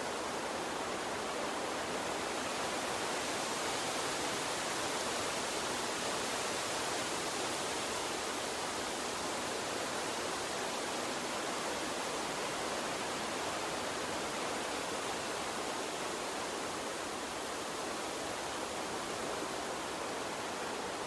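Gentle water stream flowing, a steady even rush with no distinct splashes or changes.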